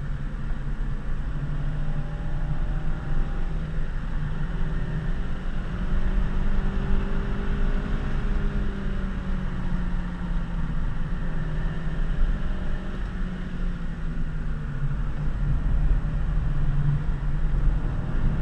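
Honda Civic Si coupe's four-cylinder engine and tyre noise heard from inside the cabin while the car is driven on a winding road. The engine note climbs about a third of the way in, holds, then falls back and rises again as the driver works the throttle.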